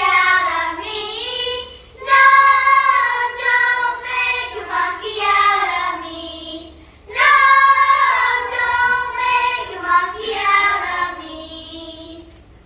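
A group of young children singing together. The phrases break off briefly about two and seven seconds in, and the singing dies away near the end.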